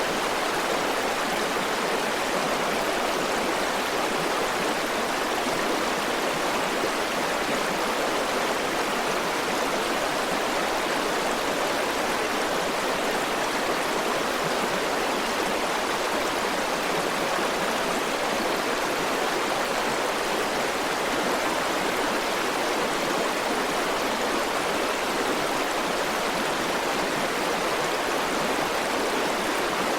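River water flowing over rocks: a steady, even rushing with no changes.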